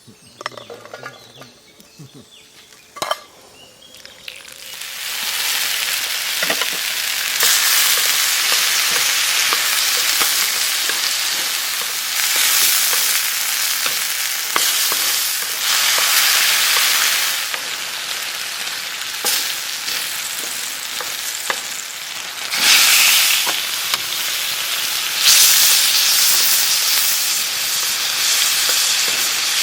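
Food frying in a pan over a campfire: a couple of clicks, then from about four seconds in a loud, steady sizzle that swells several times as the food is stirred or more goes into the pan.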